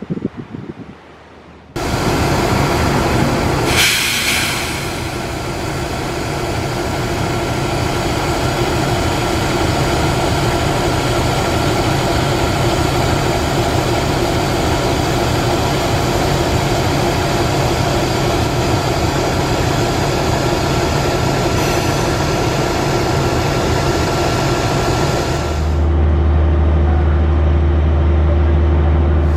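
A CC206 diesel-electric locomotive and its passenger coaches running along the track: the steady noise of the engine and the wheels on the rails. A brief high hiss comes about four seconds in, and a heavy low rumble takes over near the end.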